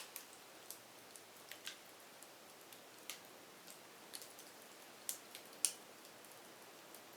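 Firewood crackling: irregular sharp pops and snaps over a faint steady hiss, with the loudest pops about five seconds in.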